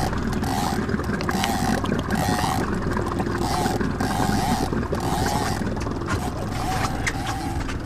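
Boat motor running steadily under a fishing reel's clicker buzzing in short repeated spurts as line is reeled in on a hooked Chinook salmon.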